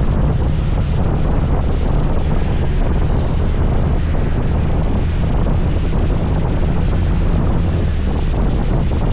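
Steady wind buffeting the microphone of a rider on a moving scooter, a constant low rumble with the scooter's running noise mixed in.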